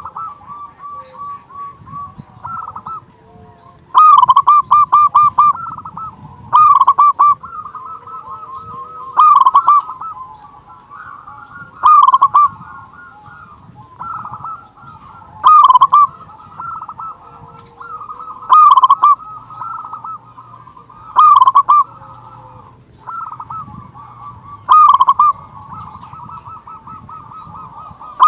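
Zebra dove (perkutut) cooing: a loud, staccato, bubbling coo phrase repeated about every three seconds, with softer trilling coos running between the phrases.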